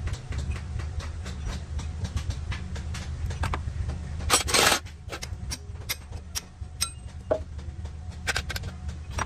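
Workshop sounds: scattered metal clinks and knocks over a steady low hum, with one loud half-second hiss about four and a half seconds in.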